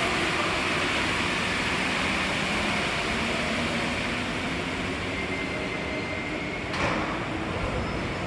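Interior noise of an MP14 rubber-tyred metro train on Paris line 4, a steady rumble and hiss as it runs. Near the end a thin high tone sounds briefly, ending in a sharp click.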